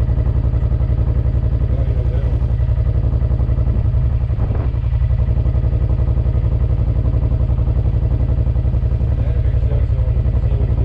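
Stock 2013 Suzuki Boulevard M50's 805 cc V-twin idling with an even, rapid low throb, warming up after a cold start, heard from behind the bike. A brief knock about four and a half seconds in.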